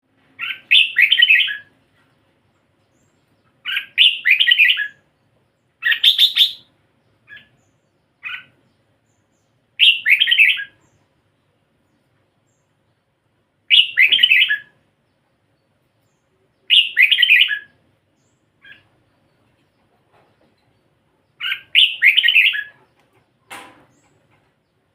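Red-whiskered bulbul singing: seven short phrases of warbled song, each about a second long and a few seconds apart, with a few single short notes in between.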